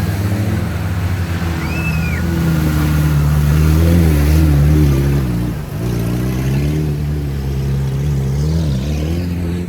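Off-road vehicle's engine running under changing load, revving up and down, with a brief dip about halfway through. A short high whistle-like tone sounds once about two seconds in.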